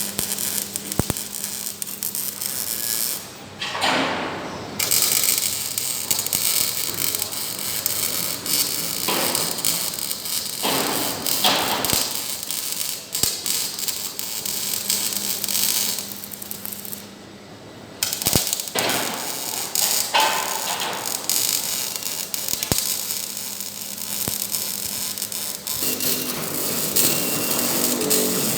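Metal fabrication workshop noise: repeated hammer knocks on metal over a steady electric hum, with bursts of hiss.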